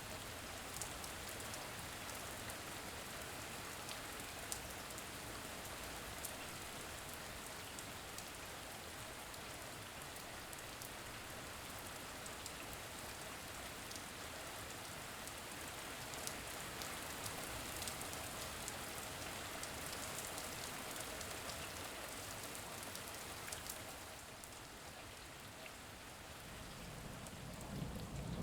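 Steady rain falling: an even hiss with scattered sharp drop ticks, easing slightly a few seconds before the end. A low rumble of thunder begins right at the end.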